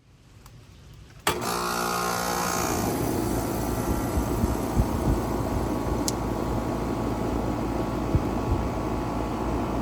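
2011 Ruud Value Series central air conditioner outdoor unit starting up: a sharp click about a second in, then the compressor and condenser fan start at once with a hum that settles within a couple of seconds into a steady running whoosh. A brief click is heard about six seconds in.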